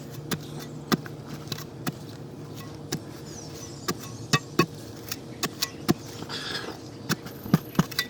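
Irregular sharp clicks and taps as dirt is cleaned off a buried copper water line by hand, over a steady low hum.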